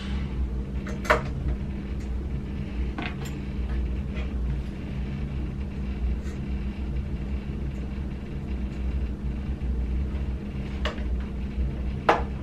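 A few sharp clicks and knocks, about four in all, over a steady low hum.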